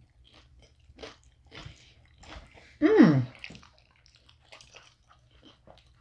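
Close-miked chewing and biting of food, with scattered crunches. About three seconds in, a brief voiced hum whose pitch falls.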